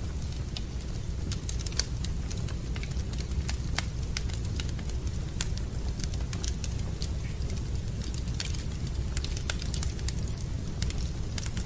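A fire burning in a fireplace, crackling with irregular sharp pops and snaps over a steady low rumble.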